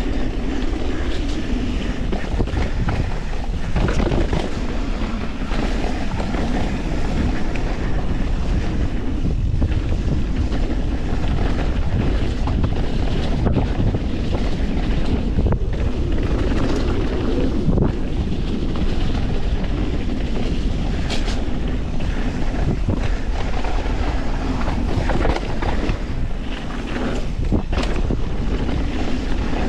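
Wind rushing over an action camera's microphone during a fast mountain bike descent, mixed with the tyres and the full-suspension YT Industries Capra's chassis chattering over dirt, roots and rocks. Occasional sharp knocks from rock hits stand out, about four times.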